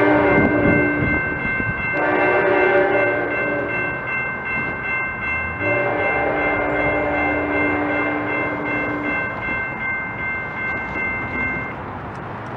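Train horn sounding in separate blasts: one cuts off about a second in, a second follows shortly after, and a longer one comes near the middle, over the rumble of a train, with steady high tones that stop near the end.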